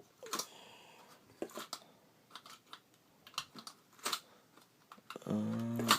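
Light, irregular clicks and taps from a homemade Stirling engine worked by hand, its piston and flywheel stopping short of a full revolution. Near the end a man's voice comes in.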